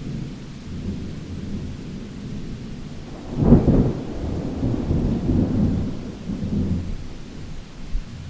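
Thunder with rain: a low rumble builds, a sharp crack comes about three and a half seconds in, and the thunder then rolls on and fades near the end.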